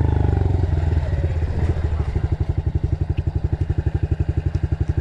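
Dirt bike engine coming off the throttle and dropping in pitch, then settling into a steady idle with even pulses about ten a second.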